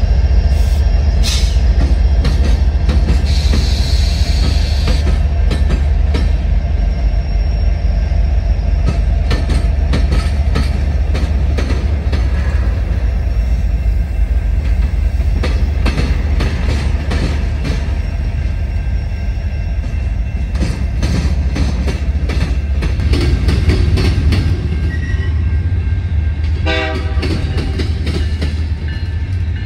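Train rolling past at close range: a steady heavy rumble with many clicks of wheels over rail joints, a brief high squeal a few seconds in and a short pitched sound near the end.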